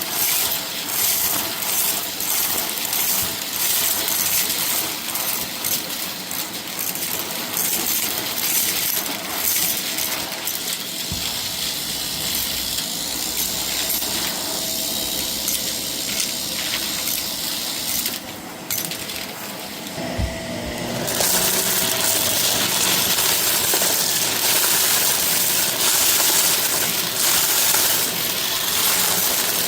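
Vacuum cleaner running over a rug, with a steady motor hum and dense rattling and crackling of debris being sucked up. A thump about twenty seconds in, after which it runs a little louder.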